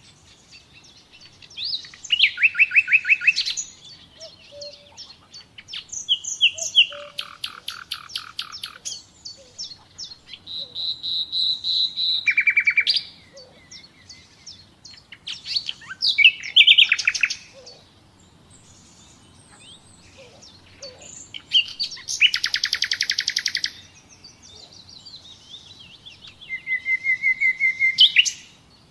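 Nightingale singing: about six separate phrases of rapid repeated notes, trills and whistles, each lasting one to two seconds, with pauses of a few seconds between them.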